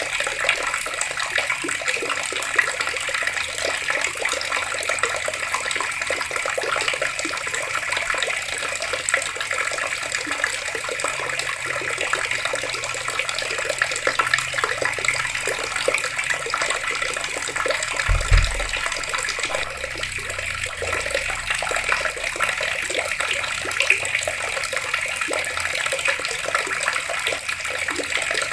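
Water running steadily from taps and splashing, with a brief low thump about two-thirds of the way through.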